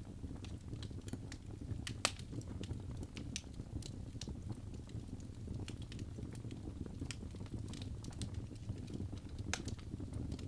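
Wood fire burning in a fireplace, with a steady low rumble and irregular crackles and pops; the sharpest pop comes about two seconds in.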